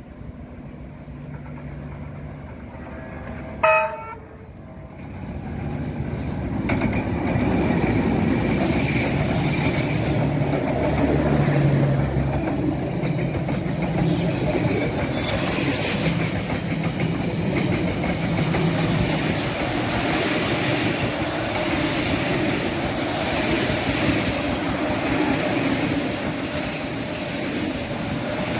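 D19E diesel-electric locomotive giving a short horn blast about four seconds in, then a train passing close by: the locomotive's engine, and carriages rolling over the rails with a clickety-clack, steady and loud to the end, with a faint wheel squeal near the end.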